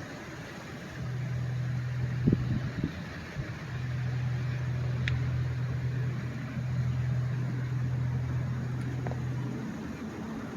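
A low, steady engine hum that drops out and returns several times, with a few soft knocks about two seconds in and a brief high tick about five seconds in.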